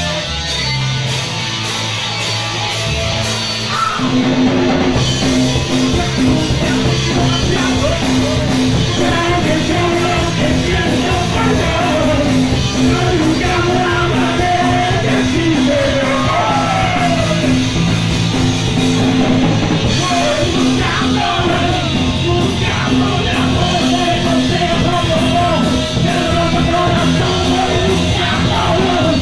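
Live punk rock band playing: distorted electric guitars, bass and drums, with a singer yelling over them. The band comes in at full force about four seconds in.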